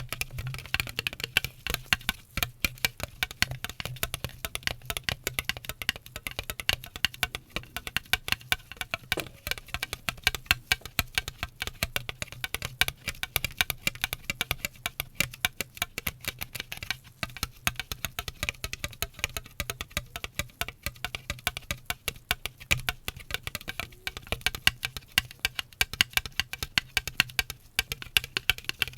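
Fast, dense tapping and clicking, many taps a second without pause, over a low steady hum: an ASMR tapping trigger.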